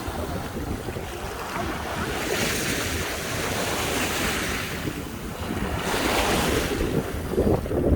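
Sea surf washing onto a beach, with two waves swelling up and hissing, under the low rumble of wind buffeting the microphone.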